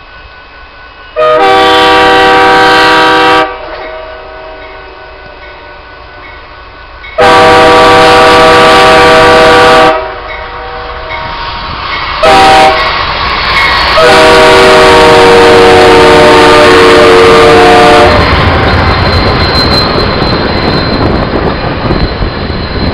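Amtrak passenger locomotive's air horn sounding a chord in the grade-crossing pattern: long, long, short, long. About five seconds before the end the horn stops and the train passes with a loud, heavy rumble.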